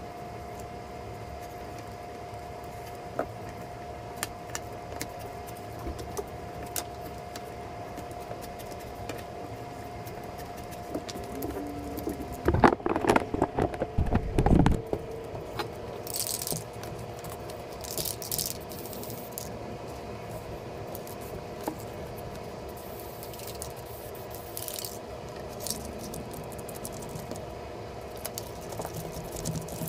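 Handling noises from fitting foam flooring pieces onto a boat deck: scattered light knocks, rattles and scrapes over a steady hum. A louder spell of rattling and scraping comes about halfway through, followed by several short scrapes.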